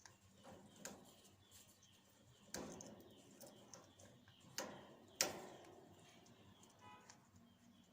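African grey parrot biting and snapping neem leaves with its beak: a few sharp, crisp snaps several seconds apart, the loudest about five seconds in, with a brief soft pitched sound near the end.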